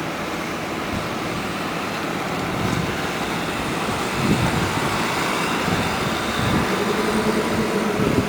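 Train at a main-line railway station: a steady rumble that grows louder about halfway through, with a humming tone setting in near the end.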